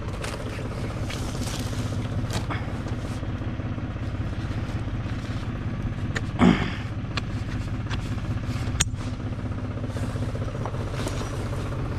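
Tractor engine running steadily, with a brief louder sound about six and a half seconds in and a sharp click a couple of seconds later.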